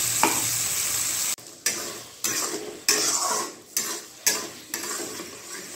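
Paste sizzling in a hot non-stick kadhai just after water is added. The sizzle drops off suddenly about a second and a half in, then a spatula stirs and scrapes the paste around the pan in short strokes every half second or so, each stroke with a brief sizzle.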